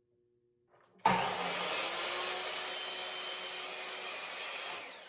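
Power miter saw starting up suddenly about a second in and cutting through a wooden board, running steadily, then easing off near the end as the blade begins to spin down.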